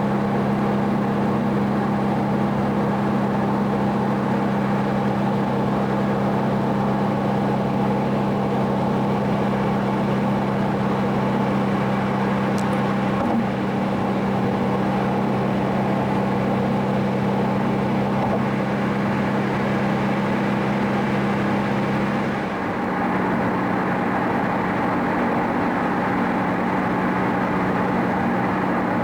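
Car engine running at a steady cruising speed under a constant haze of road and tyre noise, heard from inside the car. About 22 seconds in, the engine note dips briefly, then settles again.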